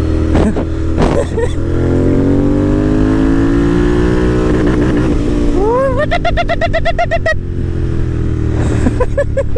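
Royal Enfield GT650's parallel-twin engine through an AEW aftermarket exhaust, running steadily under way, its note rising and falling with the throttle. A man laughs loudly about six seconds in and again near the end.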